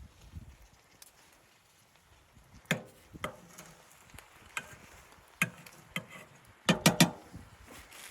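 A series of sharp knocks and clatters at irregular intervals, with a loud cluster of three in quick succession near the end.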